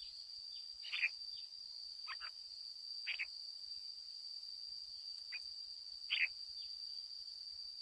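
Red-whiskered bulbul giving short separate calls, roughly one a second, the loudest about one second and six seconds in. A steady high-pitched drone runs underneath.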